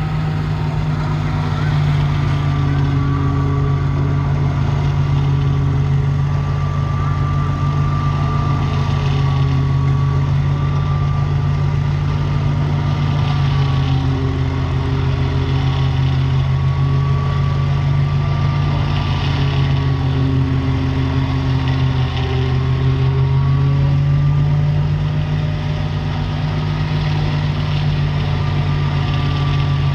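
Ghazi tractor's diesel engine running steadily under the load of a silage machine, its pitch dipping and recovering slowly every several seconds, with a thin high whine wavering above it.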